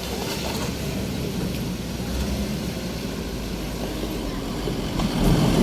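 A truck engine running with a steady low rumble.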